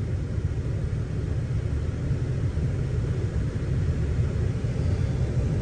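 A big 500-cubic-inch engine running steadily, with its fixed-speed, clutchless fan bolted solid to the engine turning with it: an even, steady low rumble.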